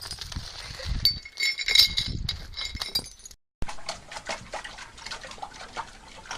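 A dog vocalizing, with a few clinks and knocks, cut off abruptly about three and a half seconds in; after the cut come scattered light clicks and knocks.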